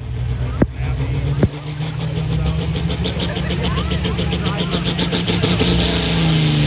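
Diesel engine of a competition pulling vehicle running hard under load with a steady, heavy rumble. Two sharp pops come about half a second and a second and a half in, and the engine pitch climbs near the end.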